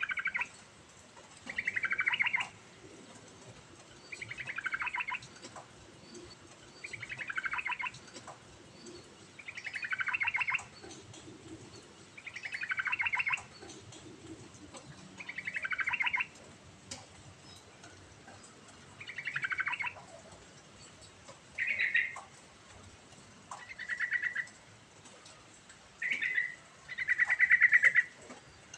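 Yellow-vented bulbul (trucukan) singing. It gives a repeated, fast-pulsed phrase about every two to three seconds, each phrase falling in pitch. Near the end the phrases turn shorter and flatter.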